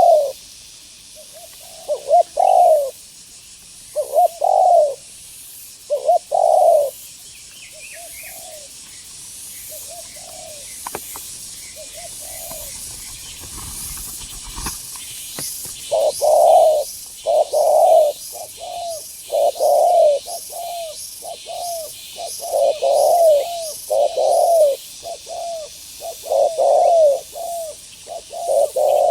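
Spotted doves cooing in repeated phrases, spaced out at first, softer and sparse in the middle, then coming thick and fast in the second half. Faint high chirping runs underneath, with a brief low rumble about halfway.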